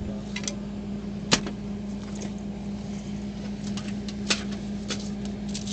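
Sharp knocks and clicks of objects being handled during a search of a car, the loudest about a second in and another about four seconds in, over a steady low hum.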